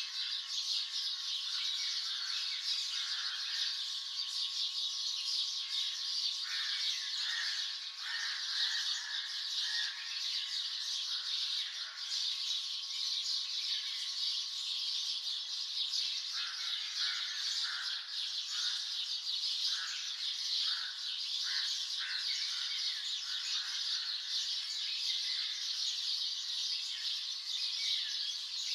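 Dawn chorus of many songbirds chirping and calling over one another without pause, a dense high chatter with frequent shorter chirps lower down.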